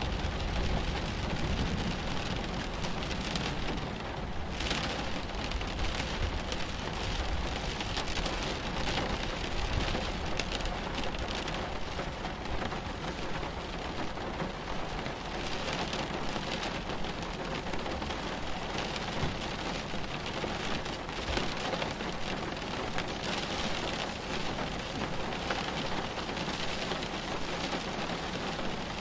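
Steady, even rain falling during a thunderstorm, with a low rumble of thunder dying away in the first few seconds.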